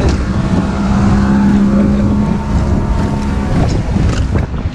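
Motorboat's outboard engine running steadily with a strong wind rush on the microphone; the engine's hum fades about three and a half seconds in.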